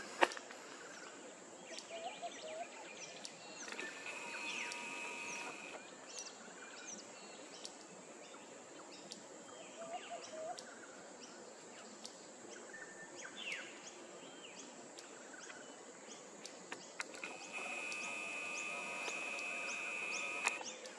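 Birds chirping and calling in bushland: many short, quick high chirps, with a louder steady whistling call swelling twice, a few seconds in and again near the end.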